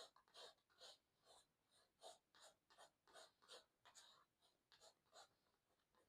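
Palette knife scraping and spreading acrylic paint over textured watercolour paper: a faint run of short, scratchy strokes, about two or three a second.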